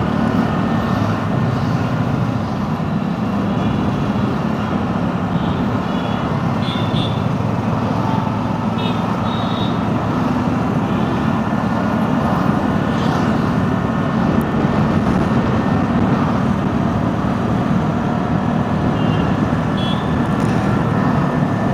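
Road traffic in a jam: a steady, continuous noise of vehicle engines and traffic, heard from a scooter among the queued vehicles. A few brief high-pitched sounds stand out at intervals over it.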